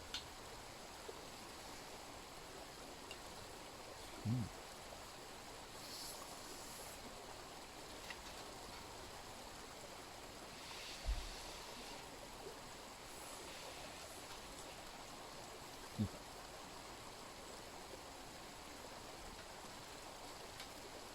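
Mountain stream running steadily, with three short low thumps spread through it.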